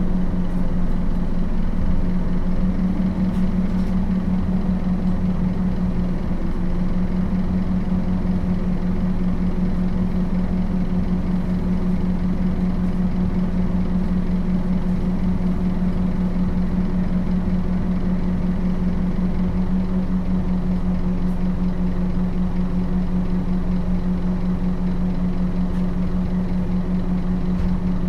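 Scania DC9 five-cylinder turbodiesel of a Scania K270UB city bus running steadily at an unchanging pitch, with a constant low hum and rumble.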